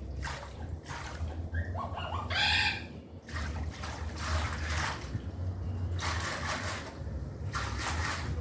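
Electrolux washing machine working a load: water sloshing and swishing in irregular surges over a steady low motor hum. A short, loud, high-pitched call cuts in about two and a half seconds in.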